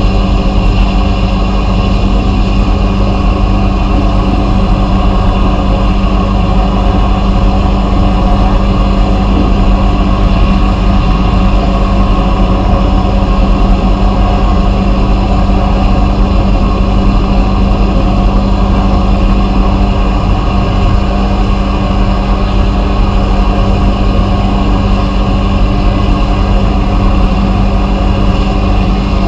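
Vapor blasting equipment running: a loud, steady machine hum with a hiss over it, unchanging throughout.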